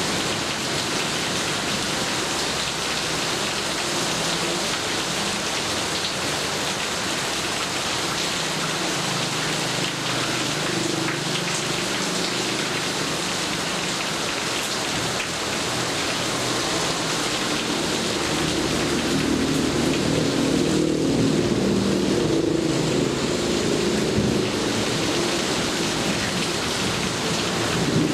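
Steady rain falling, with a low rumble of thunder building up in the second half.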